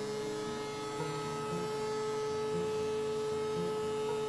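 DeWalt benchtop thickness planer running as a board feeds through, a steady motor hum with a clear high whine.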